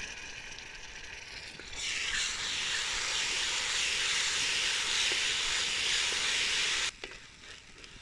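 Sliced onions and freshly added ginger-garlic paste sizzling in hot coconut oil in an uruli while being stirred with a wooden spatula. The sizzle grows much louder about two seconds in as the wet paste meets the oil, holds steady, then cuts off abruptly about seven seconds in.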